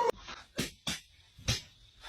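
Four short, soft knocks or taps, spaced irregularly over two seconds.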